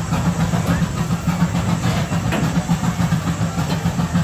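Amusement-park ride train running along its track, heard from on board: a steady low rumble from its engine and wheels.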